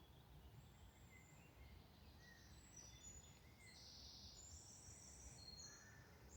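Faint woodland birdsong: several birds giving short high chirps and whistles, more of them in the second half, over a faint low rumble.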